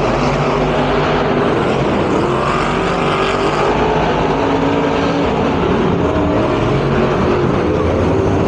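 Monster truck engines revving loudly, their pitch rising and falling again and again over a dense, continuous wash of noise.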